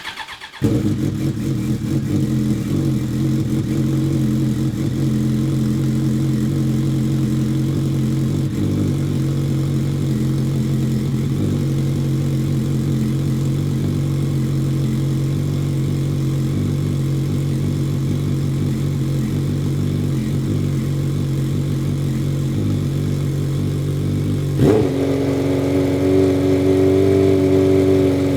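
Suzuki Bandit 1200's air/oil-cooled inline-four engine catching within the first second after cranking and idling steadily on choke: its first start after an engine and gearbox rebuild. About 25 s in the revs rise and hold at a higher idle.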